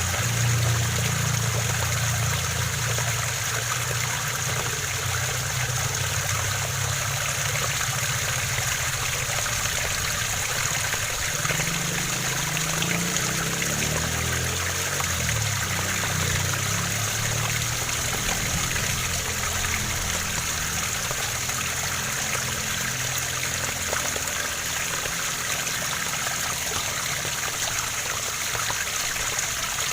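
Waterfall: water falling and splashing in a steady rush with no breaks.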